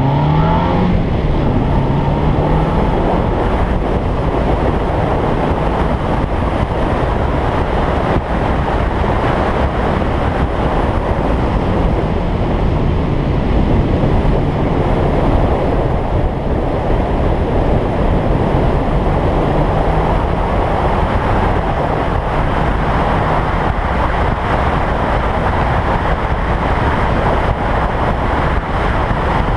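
Toyota Sprinter Trueno's engine pulling at speed under heavy wind rush on an exterior-mounted camera. The engine note climbs in the first second, then holds roughly level with small rises and dips.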